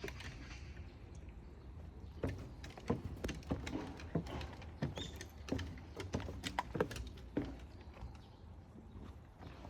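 Footsteps and a dog's paw taps going down stairs: irregular sharp taps, about one or two a second.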